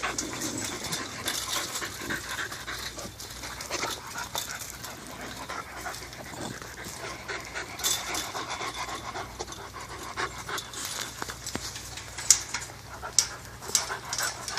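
Pit bull puppies panting hard, with scattered short clicks and several sharper ones near the end.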